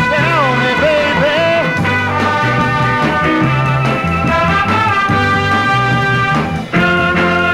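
Soul band playing an instrumental passage: held chords over a bass line. A sliding melodic line runs through the first two seconds, and there is a brief drop near the end before a new chord comes in.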